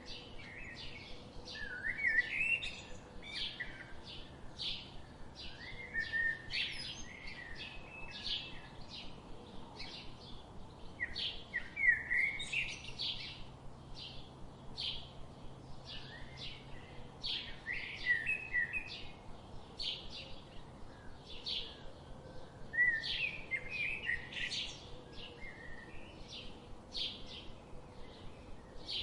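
Birds chirping: short, regular chirps about two a second, with a burst of quick twittering every five or six seconds.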